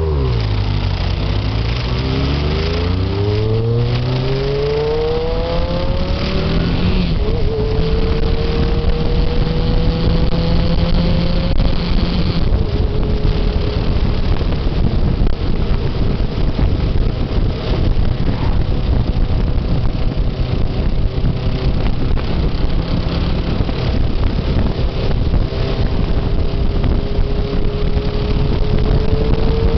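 Motorcycle engine accelerating, its pitch climbing over the first few seconds, then running on at road speed with slow, gentle rises in pitch, with wind rushing over the microphone.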